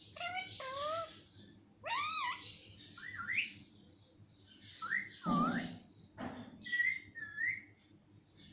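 Pet parrot calling in a series of short whistle-like calls that glide up and down in pitch, with brief pauses between them; one lower, louder call comes about five seconds in.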